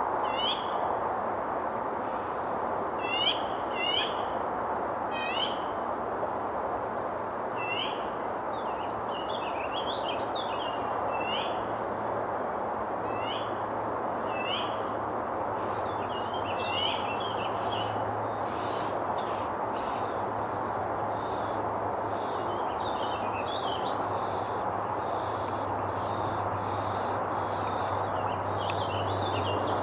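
Small birds calling repeatedly: short, sharp high chirps that sweep down in pitch, coming in clusters. In the second half there is a quicker run of short repeated notes. A steady rushing background hum runs underneath.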